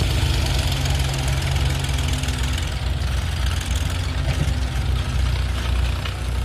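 Sonalika DI 750 tractor's diesel engine running steadily, its sound mostly deep and low.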